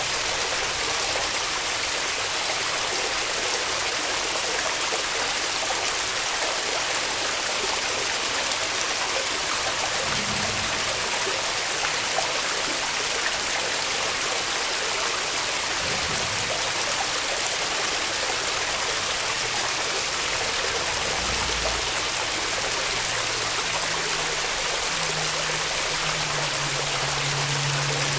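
Small waterfall rushing steadily, an even hiss of falling water with no change in level.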